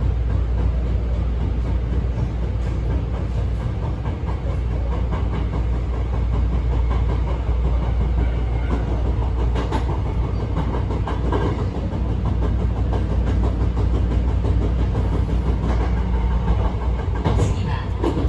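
Hankyu 1000 series electric train (set 1013F) running, a steady rumble with a light rattling clatter that keeps on throughout. It is an abnormal noise that the uploader suspects is a fault.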